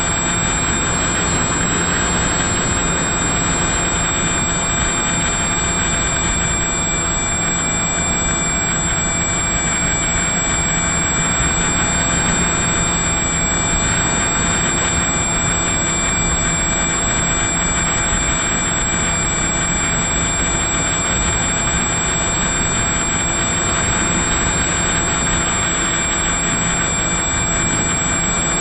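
Electric motor and propeller of an FPV model aircraft running at a steady throttle, heard from a camera on board: a constant high whine over rushing wind noise.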